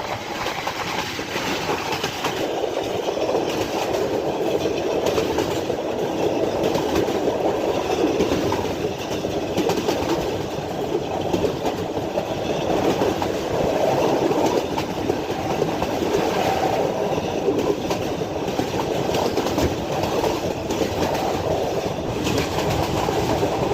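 Millat Express passenger train running on the rails after leaving the station: a steady rumble of wheels on track.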